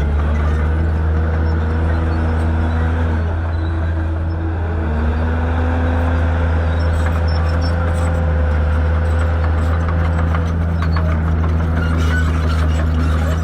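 Shantui bulldozer's diesel engine running steadily, with a higher tone above the hum that sags about four seconds in and climbs back as the load changes. Scattered clicks and clatter join in near the end.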